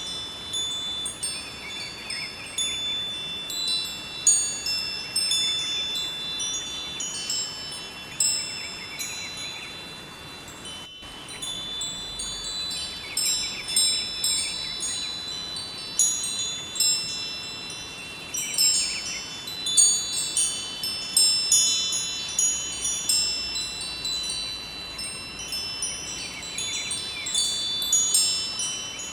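Wind chimes ringing irregularly, many high tones struck and overlapping, over the steady rush of a flowing river. There is a very short break about eleven seconds in.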